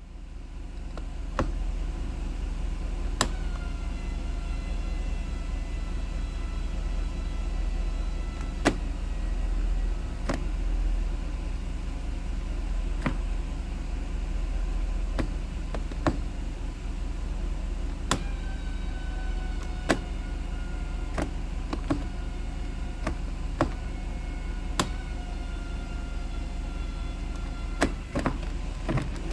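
1991 Mercedes-Benz 500SL automatic transmission squeaking in first gear and on the shift from first into second. A high squeal slides slowly down in pitch over several seconds, three times, over a steady low engine rumble and scattered sharp clicks.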